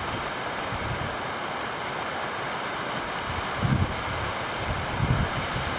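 Heavy rain pouring down in a steady hiss, with two brief low thumps of wind buffeting the microphone, one about two thirds of the way in and one near the end.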